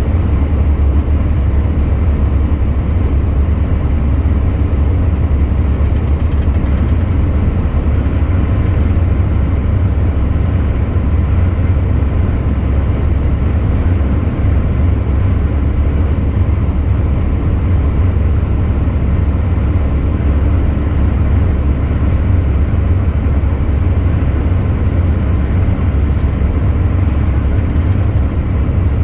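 Truck driving along at steady speed: a constant low drone of engine and road noise with no changes.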